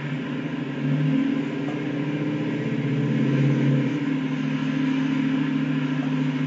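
Diesel locomotive engine running with a steady low drone that swells about a second in and stays loud.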